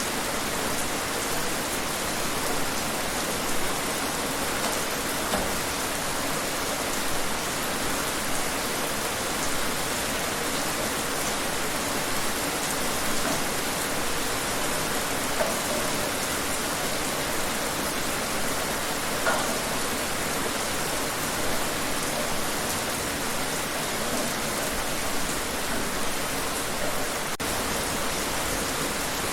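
Steady rain falling outside, an even hiss with scattered louder drops.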